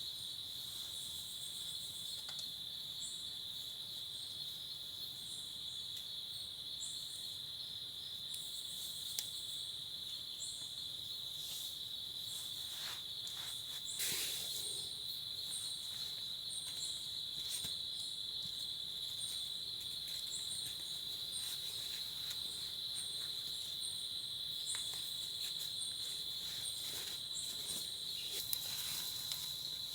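A steady, high-pitched, unbroken trill of insects, with short chirps repeating higher above it. A few soft taps break through, the loudest about halfway through.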